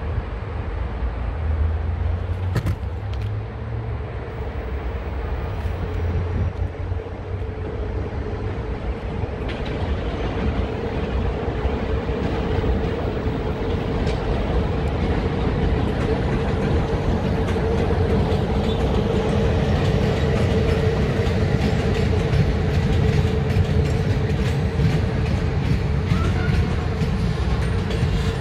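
Passenger train hauled by two Romanian class EA electric locomotives approaching and passing. A low rumble and a steady electric hum grow louder, and from about halfway in there is a quick run of wheel clicks on the rails.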